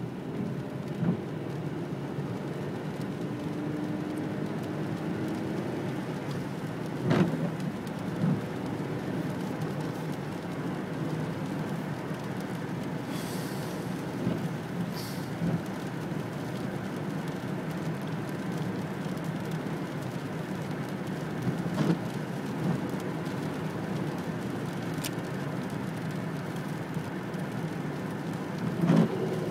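Steady rain falling as a low, even rush, with a few sharp taps scattered through it, about 7, 22 and 29 seconds in.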